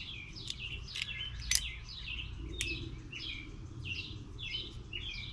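A small bird chirping over and over, about two short notes a second, with a few sharp clicks, the loudest about a second and a half in.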